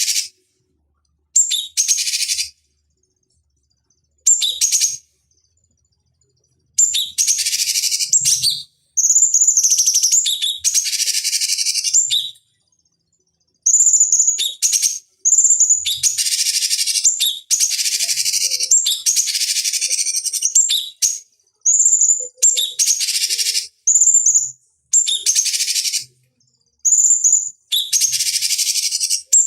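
A cucak cungkok calling in repeated short bursts. Each burst opens with a clear high note and runs on into a harsh, buzzy chatter, with abrupt silent gaps between them that grow shorter about a quarter of the way in.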